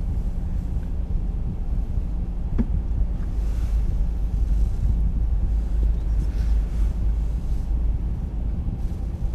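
Car engine idling, heard from inside the cabin as a steady low rumble while the car waits at a red light, with a single brief click about two and a half seconds in.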